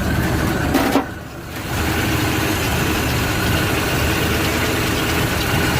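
1929 Ford Model A's four-cylinder flathead engine idling steadily, with a brief dip in level about a second in.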